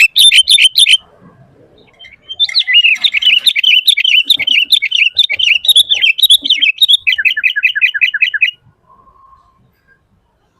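Sooty-headed bulbul (kutilang) singing loudly. A fast run of repeated notes ends about a second in. After a short pause comes a long, varied chattering phrase of about five seconds, which ends in a quick series of repeated falling notes.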